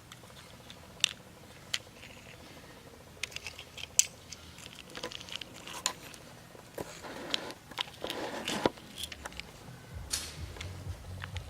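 Small toy vehicles being handled and moved about: scattered light clicks and knocks, with a short stretch of scraping about seven seconds in.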